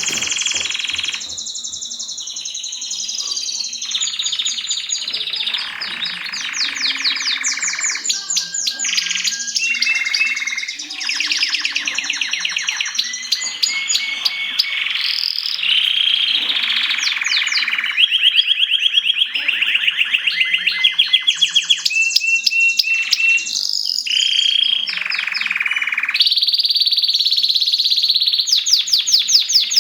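Mosaic canary singing: a continuous song of fast trills and rolls alternating with held notes.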